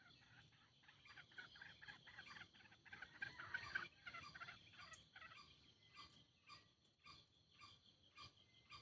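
Green junglefowl calling: a quick rattling run of notes that is loudest about three to four seconds in. After it come faint, evenly spaced chirps about twice a second.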